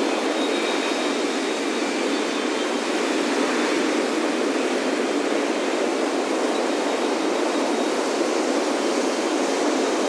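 Ocean surf breaking on a beach: a steady, even wash of waves with no single crash standing out. Faint high wind-chime tones ring over it near the start and again near the end.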